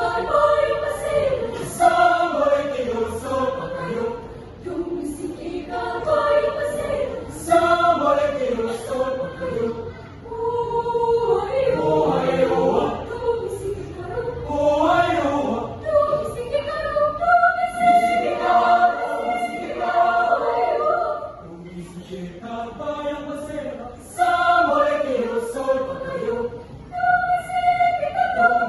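A choir singing in parts, unaccompanied, in phrases that swell and fall away.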